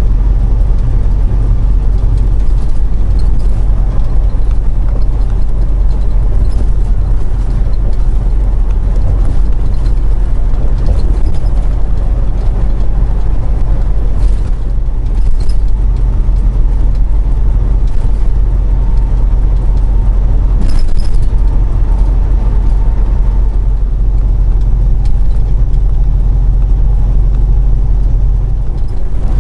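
Semi truck driving at highway speed, heard from inside the cab: a steady low engine drone under road noise.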